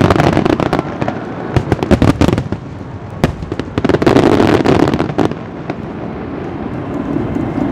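Aerial firework shells bursting overhead: a run of sharp bangs and crackles, then a heavier boom about four seconds in that rolls and rumbles before settling into a steady background noise.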